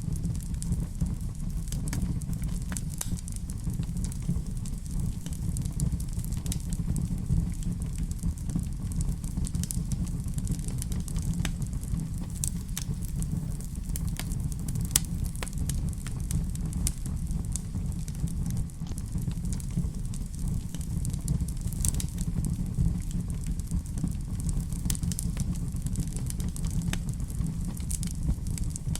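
Fire burning in a fireplace: a steady low rumble with frequent irregular crackles and pops.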